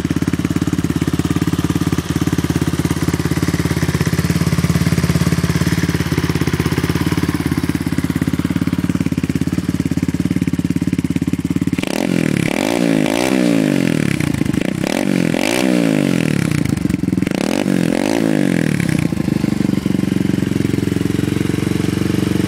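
Skyteam Dax 125 minibike's single-cylinder four-stroke engine idling steadily through a carbon-fibre silencer, then blipped several times, each rev rising and falling, about halfway through, before settling back to idle near the end.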